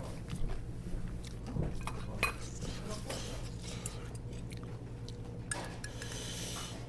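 Spoon and chopsticks clicking against bowls during a meal, in scattered light clinks over a low steady hum, with a stretch of hissy noise near the end.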